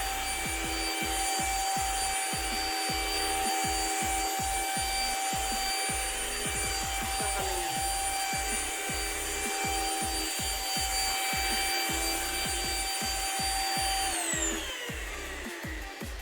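Deerma CM800 handheld dust-mite vacuum running with a steady high whine while it is rubbed and scraped back and forth over fabric, with many short low knocks. About fourteen seconds in it is switched off and the whine falls away as the motor winds down.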